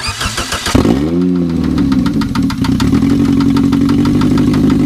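The newly swapped-in engine of a 2003 Toyota Corolla cranks briefly, catches about a second in with a quick rev flare, then settles into a steady, pulsing idle. The idle is rough enough that the owners suspect a misfire, perhaps from a bad connection leading to the ECU.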